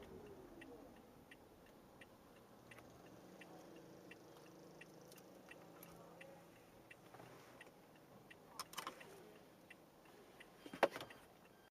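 Faint vehicle noise with soft, regular ticking about one and a half times a second, and a few sharp clicks and knocks near the end. A falling tone fades out in the first second.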